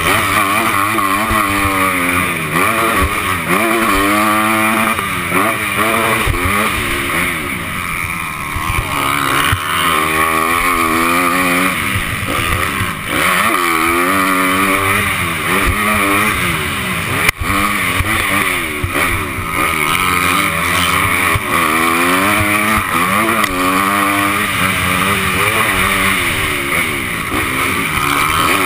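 Honda 250-class motocross bike engine revving up and dropping off over and over as the rider works the throttle and gears. A single sharp knock sounds about 17 seconds in.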